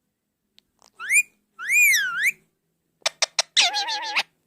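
Indian ringneck parakeet whistling: a short rising whistle about a second in, then a longer whistle that swoops up, down and up again. Near the end come a few sharp clicks and a short raspy, voice-like call.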